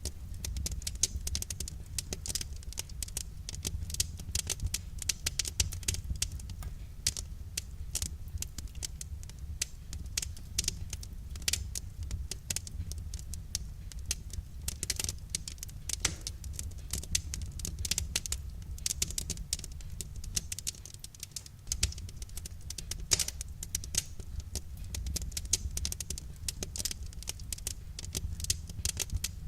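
Wood fire crackling: a dense, irregular run of small crackles and pops over a steady low rumble.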